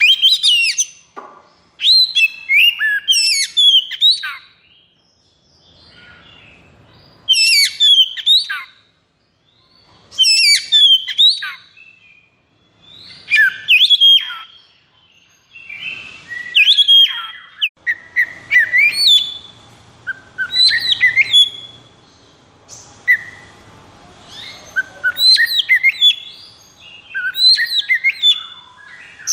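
Oriental magpie-robin (kacer) singing loud phrases of quick, sweeping whistled notes, one burst every two to three seconds with short pauses between. This is the excited, high-arousal song that kacer keepers call 'konslet'.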